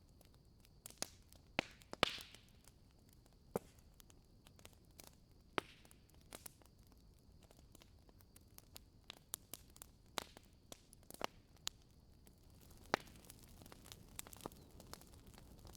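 Wood fire crackling: irregular sharp pops and snaps over a faint hiss, the strongest about two seconds in and again near thirteen seconds.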